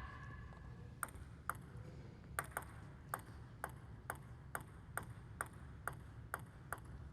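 A table tennis ball bouncing over and over at a steady pace, about two sharp pings a second, starting about a second in.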